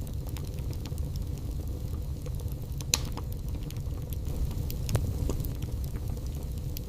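Wood fire burning in a fireplace: a steady low rumble with scattered crackles and two sharper pops, about three and five seconds in.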